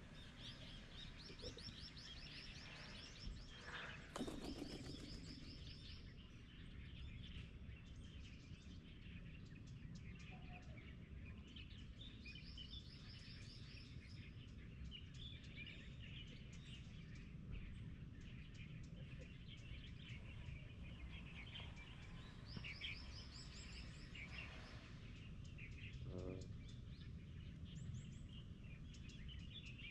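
Small songbirds chirping, with several rapid high trills repeated every few seconds, over a low steady outdoor rumble. There is a brief louder sound about four seconds in.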